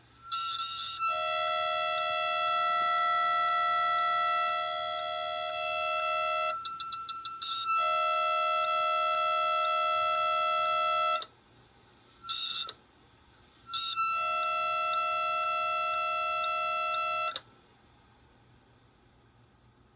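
A WD My Passport 5TB portable hard drive, damaged by a drop, giving off a steady high-pitched electronic tone in three long stretches of a few seconds each, with a brief blip between the last two. Each stretch cuts off suddenly with a click.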